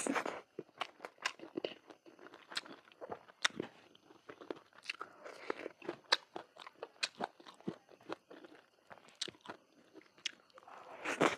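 Close-miked eating: chewing and crunching food, with many quick, irregular mouth clicks and smacks and a louder crunch near the end.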